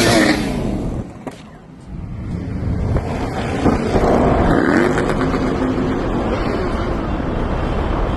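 Motorcycles riding past in a column, their engines running. One passes loudly near the start, there is a short lull about a second in, then more motorcycles come by.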